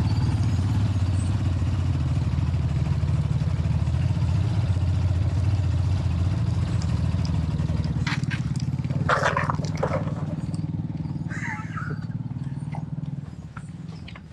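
Motorcycle engine running steadily while riding, then dying away near the end. A few brief clatters and a short higher call come in the latter half.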